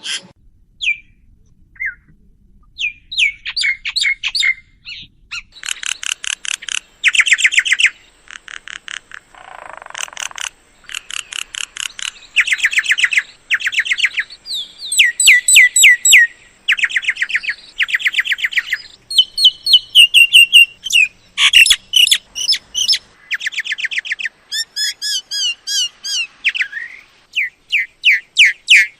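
Myna calling: bursts of rapid, repeated chirps and whistles, each burst about a second long, separated by short pauses.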